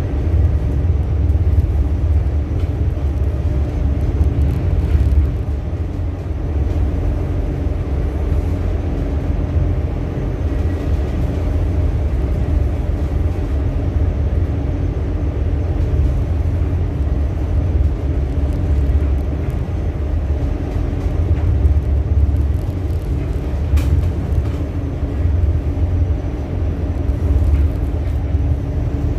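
Ship's engine running with a steady, loud low rumble and a constant hum, unchanging throughout.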